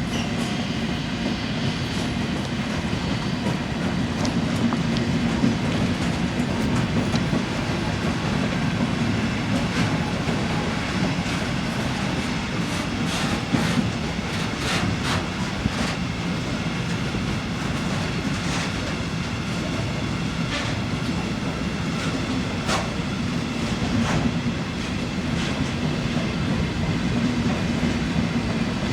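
A train running past on the track: a steady rumble, with the wheels clicking over rail joints at uneven intervals through the middle stretch.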